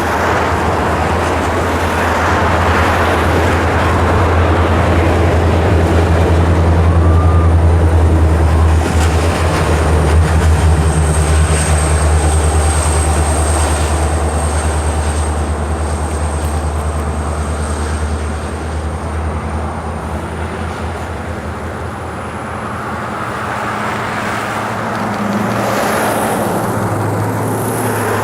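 EMD SD70MAC diesel-electric locomotives hauling a long passenger train, with a steady low engine drone that builds to its loudest about a quarter of the way in and then fades. A thin high-pitched whine runs through the middle.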